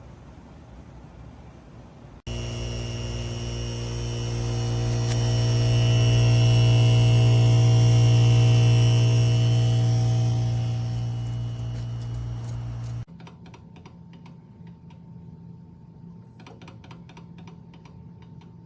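A steady low hum with a ladder of overtones starts suddenly about two seconds in, swells louder and eases off again, then cuts off suddenly; faint clicking follows.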